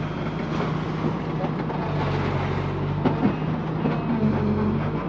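An engine running steadily at a constant speed, with a few short knocks about three seconds in.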